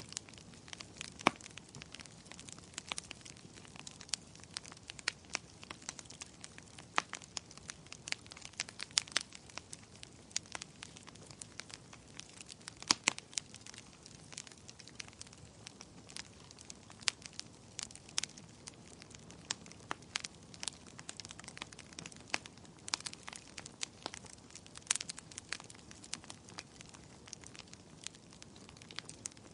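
Wood fire crackling in a fireplace: a steady soft hiss with irregular pops and snaps, a few of them sharper and louder.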